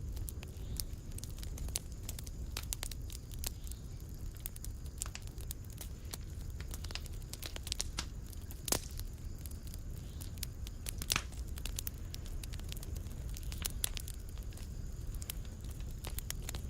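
Wood fire crackling in a fireplace: a steady low rumble of flames with scattered sharp pops and snaps, the loudest a little under halfway through and again about two-thirds in.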